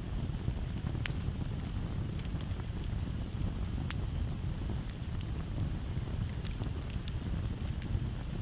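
Campfire burning with scattered sharp crackles and pops over a low, steady rumble, and a steady high cricket trill behind it.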